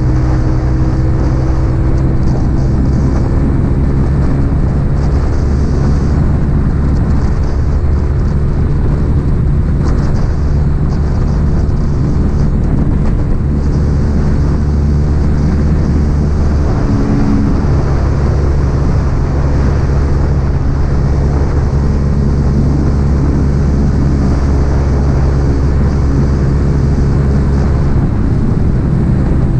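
Yamaha XSR 155's single-cylinder engine through an aftermarket M4 exhaust, running steadily at cruising speed on the road. The note holds nearly constant, with a brief change about halfway through.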